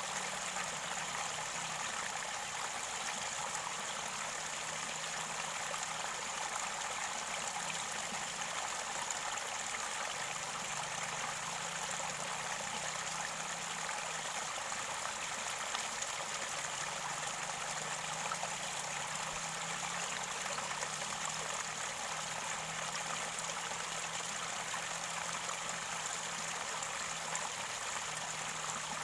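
Mountain river water running and gurgling at its source, a steady, unbroken rush of water.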